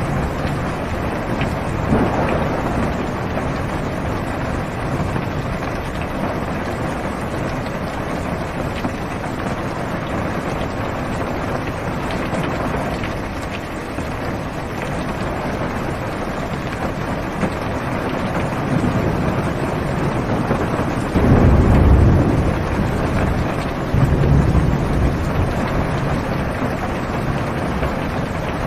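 Steady rain drumming on a car's roof and windows, heard from inside the car. Low rolls of thunder rumble faintly about two seconds in and then more strongly twice near the end.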